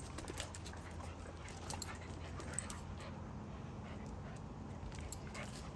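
Faint sounds of young dogs playing together, with scattered small clicks over a steady low hum.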